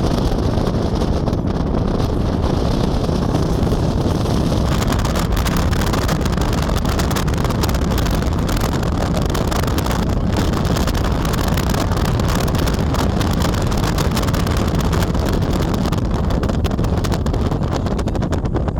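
A vehicle driving: steady engine and road rumble, with wind buffeting the microphone in crackling gusts.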